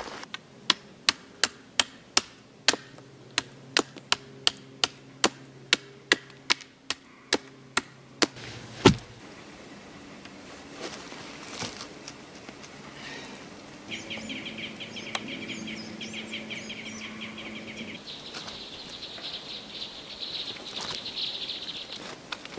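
Wood being chopped with a blade, a steady run of about twenty sharp strikes a little over two a second, the last one the loudest, about nine seconds in. Afterwards a bird trills rapidly for a few seconds.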